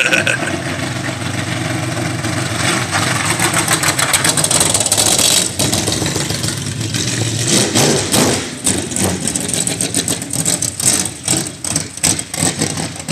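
Race car engine running through open headers at low revs, rising and falling with the throttle, steadier at first and choppier and uneven in the second half. The onlookers think it is loading up from being driven in too high a gear.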